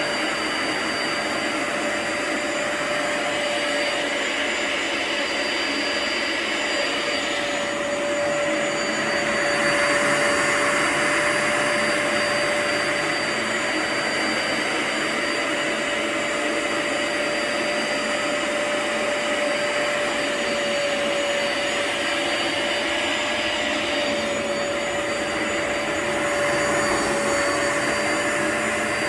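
Upright floor-cleaning machine's suction motor running steadily over a rug: a constant whine over rushing air, shifting slightly a couple of times as the machine is worked back and forth.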